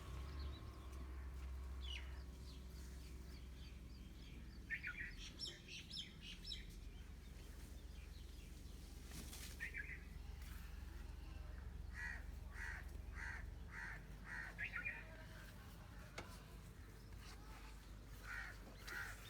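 Birds calling outdoors: scattered short calls, then a run of about six evenly spaced calls roughly twelve seconds in. A low steady hum runs underneath.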